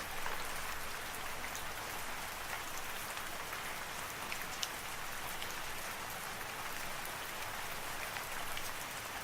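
Steady rain falling: a dense even hiss with scattered sharper drop ticks.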